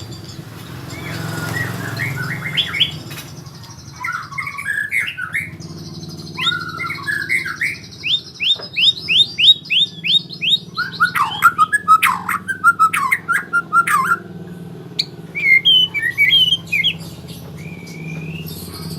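White-rumped shama (murai batu) singing varied whistled phrases, with a quick run of rising notes about midway through. A steady low hum runs underneath.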